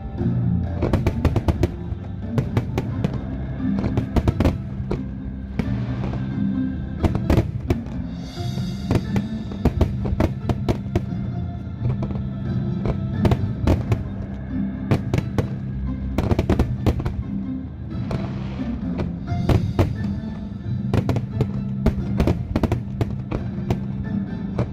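Fireworks display: aerial shells bursting in rapid succession, many sharp bangs and crackles, with music playing underneath.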